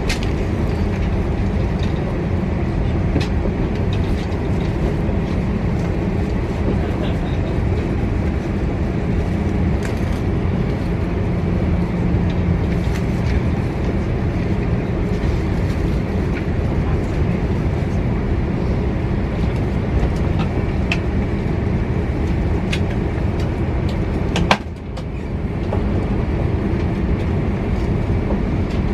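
Steady rumble of a vehicle in motion, with a single sharp knock about 24 seconds in and a brief drop in the noise just after.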